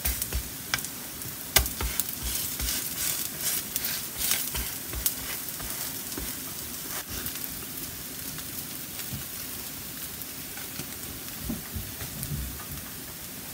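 Potato and vegetable pancakes sizzling in oil on an electric griddle, a steady hiss. A spatula scrapes and taps against the griddle as the pancakes are lifted and turned, with many sharp clicks in the first few seconds and a few softer knocks near the end.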